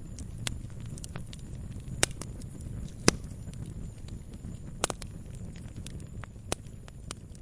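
Wood fire burning in a fireplace: a low steady rumble of flames with irregular sharp crackles and pops, the loudest about two, three and five seconds in.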